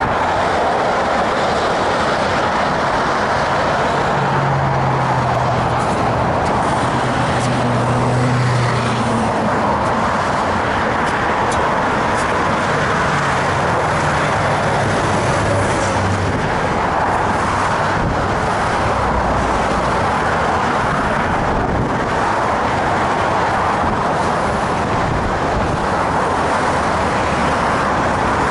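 Steady roar of car traffic crossing a bridge roadway, with the low hum of a heavier vehicle passing a few seconds in and again mid-way.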